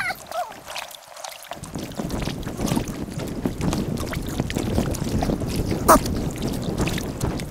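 Kayak paddling in sped-up audio: water splashing and dripping with each paddle stroke, with wind on the microphone. A sharp knock stands out about six seconds in.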